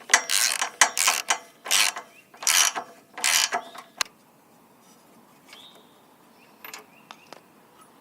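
Aerosol can of carb and parts cleaner sprayed in about five short hissing bursts, then a sharp click near the halfway point. After that only a few faint clicks.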